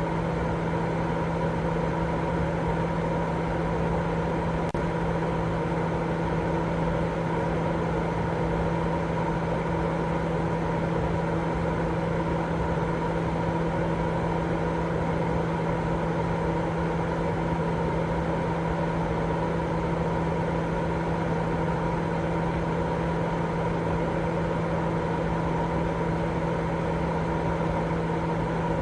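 Continuous sleep-aid white noise: a steady, unchanging rushing hiss weighted toward the low and middle range, with a low hum running through it.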